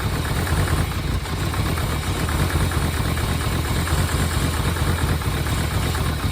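Chevrolet Caprice wagon's V8 engine running steadily at idle soon after its first start after sitting. Its alternator is locked up, which the owner first hears as a belt slipping.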